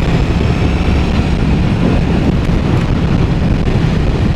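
Steady rushing wind on a microphone inside a motorcycle helmet, heaviest in the low end, with a Honda Shadow 750 running underneath at road speed.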